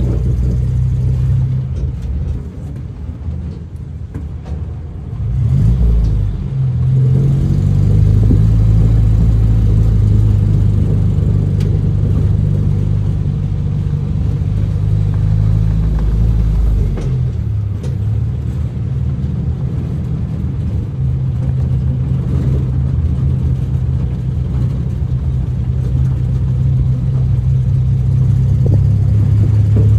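A motor vehicle's engine running steadily as a low drone. Its pitch rises about six seconds in and shifts again a little past halfway.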